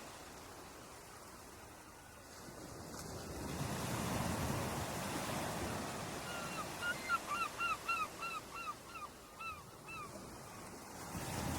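Ocean surf washing ashore, swelling about four seconds in. From about six seconds in a bird gives a rapid run of short, hooked calls, about three or four a second, lasting some four seconds.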